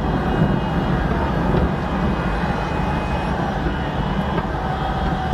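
Fireworks display heard as a steady, dense low rumble, with no single bang standing out.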